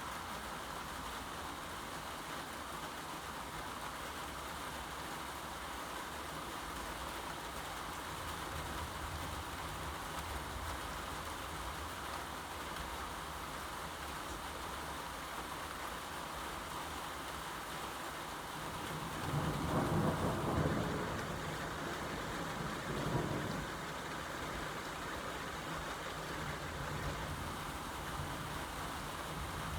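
Steady rain falling, with a short rumble of thunder about two-thirds of the way through and a smaller one a few seconds after.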